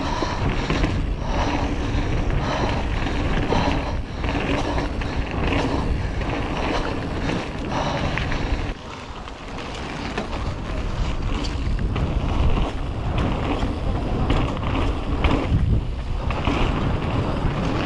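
Mountain bike riding fast down a wet, muddy trail: tyres and rattling of the bike over rough ground, with wind buffeting the microphone.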